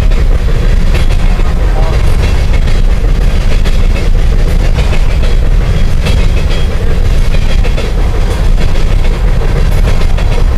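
Coal train hopper cars rolling across a steel railroad bridge: a loud, steady low rumble of steel wheels on the rails and bridge deck, with faint scattered clicks.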